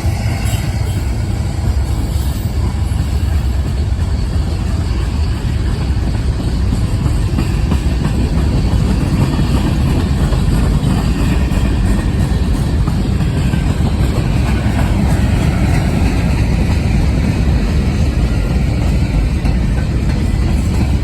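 Freight train rolling past close by: a steady, loud rumble of the cars' steel wheels on the rails.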